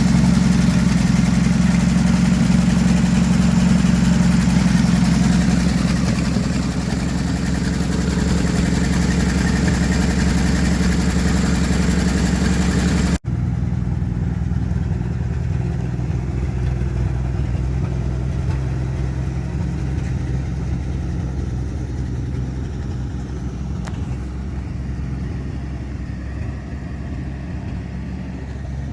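1957 Chevrolet truck's straight-six engine running steadily after years of sitting, now firing on all six plugs. About 13 seconds in the sound cuts off for an instant, and the engine carries on at a lower level.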